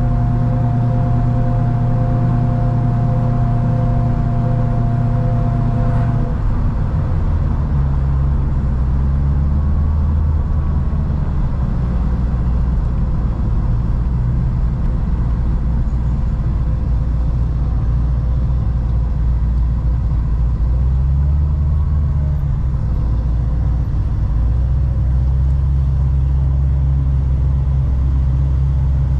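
Supercharged V8 of a modified C6 Corvette ZR1 droning steadily at cruise. About six seconds in, after a faint click, the note drops suddenly to a deeper drone, which shifts a few times later on.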